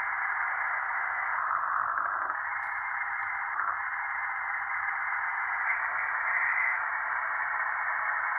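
Steady, narrow-band static hiss.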